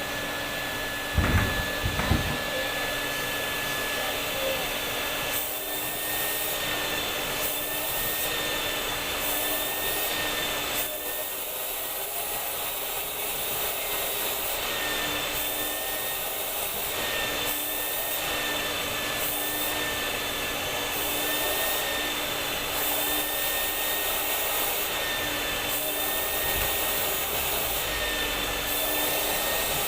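Vacuum cleaner motor running steadily, a whirring rush of air with a high, slightly wavering whine over it. A few knocks sound in the first two seconds.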